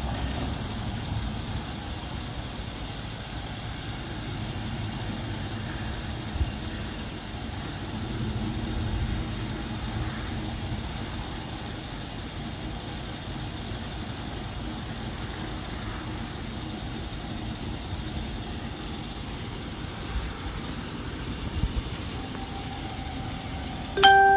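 Steady low rumble of motor vehicle noise, with a few light knocks. A short, loud electronic tone starts just before the end.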